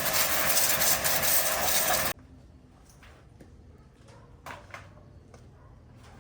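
A loud, noisy machine running, which cuts off abruptly about two seconds in, followed by a quiet stretch with a few faint clicks and knocks.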